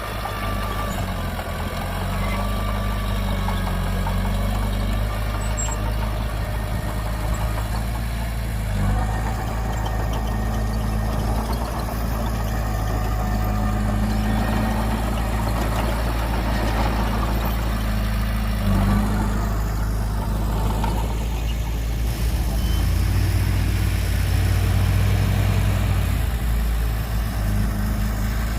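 Heavy diesel earthmoving machinery running: a steady low engine drone whose pitch steps up and down a few times.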